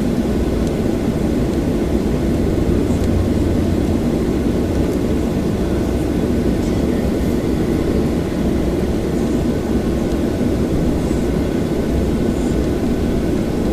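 Steady low drone inside a Boeing 737-800 passenger cabin, with a few faint steady whining tones over it.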